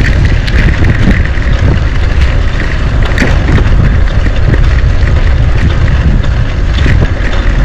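Wind buffeting the microphone while cycling: a loud, steady low rumble with a thin hiss above it.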